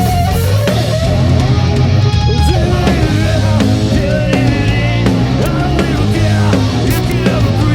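Live rock band playing loud, heavy music with distorted electric guitar, bass and drums.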